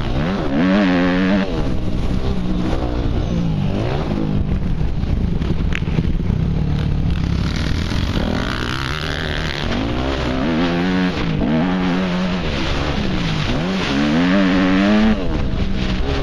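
Yamaha YZ250F dirt bike's single-cylinder four-stroke engine, revving up and falling back again and again as it is ridden hard around a motocross track, heard from a helmet-mounted camera.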